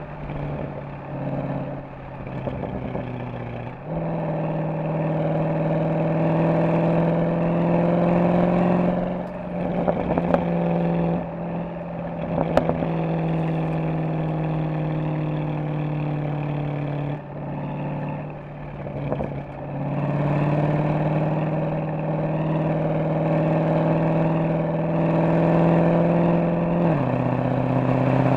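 Mercedes-AMG SL63's V8 engine and exhaust under way, its pitch climbing slowly as it pulls. The pitch drops suddenly at gear changes about two thirds in and near the end. A patch of sharp pops and crackles comes off the throttle near the middle.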